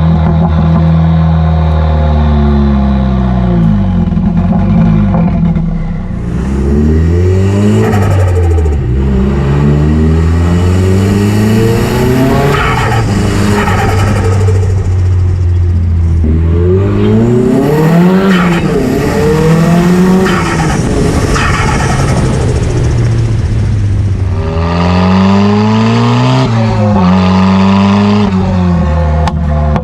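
Car engine holding a steady note for the first few seconds, then revving up and down again and again, with tyres squealing.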